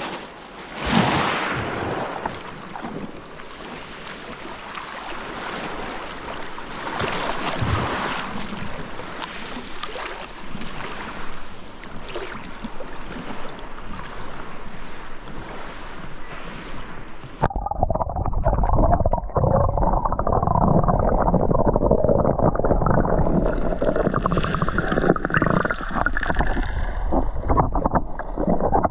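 Sea surf washing onto the shore in swells, with surges about a second in and again around seven to eight seconds. About two-thirds of the way through, the sound abruptly becomes a louder, muffled rushing.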